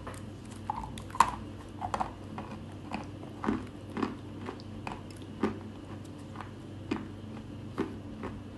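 Chalk being bitten and crunched between the teeth close to the microphone: a string of sharp, irregular crunches, about one to two a second, over a steady low hum.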